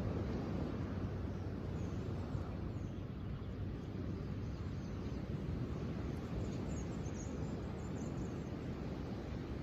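Steady low outdoor rumble with faint, high bird chirps about six to eight seconds in.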